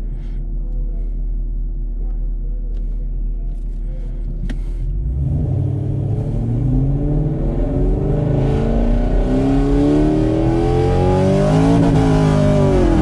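Car engine heard from inside the cabin, idling steadily, then from about five seconds in pulling at full throttle as the car accelerates hard. Its pitch climbs and it grows louder, and near the end the pitch drops at an upshift.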